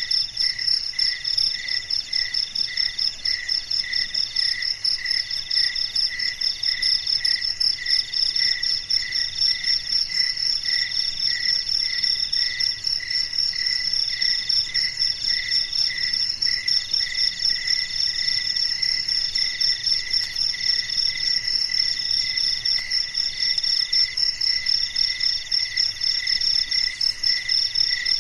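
Several crickets chirping together in overlapping, steady rhythms. One pulses about twice a second, and another trills in bursts about a second long with short breaks.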